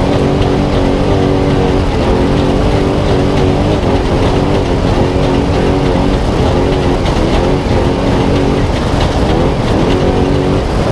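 Spec Trophy Truck's V8 engine running steadily under load, heard onboard over a constant rumble, its pitch shifting slightly in the second half.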